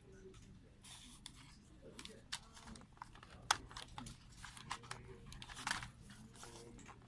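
Packaging being handled and unpacked: an irregular run of light clicks, taps and crinkling, with one sharper click about three and a half seconds in.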